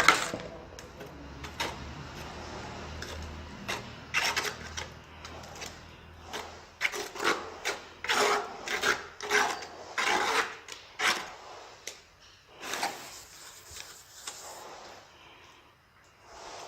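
Hand tool scraping and rubbing in a run of repeated strokes during tile laying, with a low steady hum under the first half; the strokes thin out and fade near the end.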